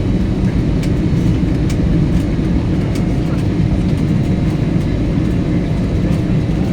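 Steady low rumble of an airliner heard from inside the cabin, with a few faint clicks.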